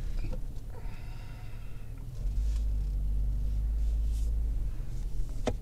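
Low rumble of a 2019 Dodge Charger GT's 3.6-litre V6 heard from inside the cabin as the car backs up slowly, growing louder about two seconds in. A faint steady high tone sounds for about a second, about a second in.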